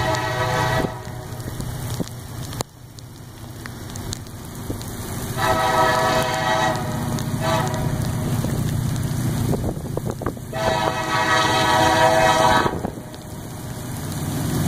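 An EMD SD40-2 diesel locomotive leading a freight train sounds its air horn in the grade-crossing pattern: long, long, short, long. A steady low diesel rumble runs underneath, with rain falling.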